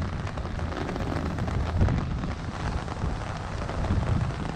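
Rain falling steadily, with many small drops tapping on an umbrella canopy overhead and an uneven low rumble underneath.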